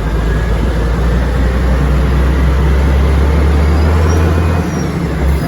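DAF tipper truck's diesel engine running steadily under way with a deep low drone, which drops off about four and a half seconds in.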